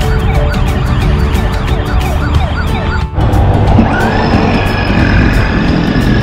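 Electronic toy police siren sweeping rapidly up and down, about two or three sweeps a second, over background music with a steady beat. After a brief drop about three seconds in, a higher wailing siren tone rises and holds.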